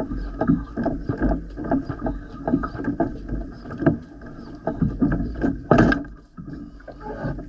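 A small boat on the sea: water knocking and splashing irregularly against the hull, several times a second, with a louder splash near the end, over a steady low rumble.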